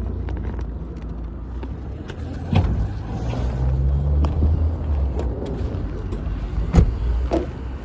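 A car engine running nearby with a steady low rumble; its pitch rises for about a second near the middle, then drops back. A few sharp knocks, the loudest about seven seconds in.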